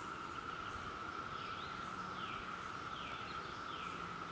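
Background chorus of Brood X periodical cicadas calling in the trees, a steady high drone. A few short falling chirps sound in the middle.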